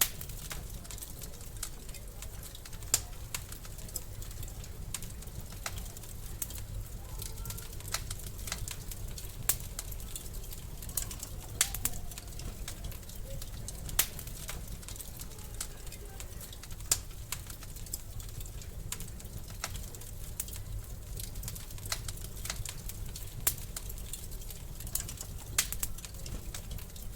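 Wood fire in a fireplace crackling: many small irregular snaps, with a louder pop every two seconds or so over a steady low rumble of the flames.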